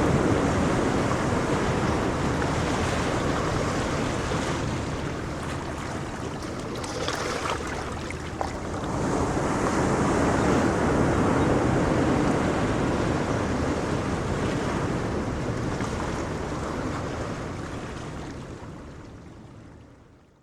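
Ocean waves breaking and washing on a shore, the surf swelling and ebbing, with wind on the microphone. The sound fades out near the end.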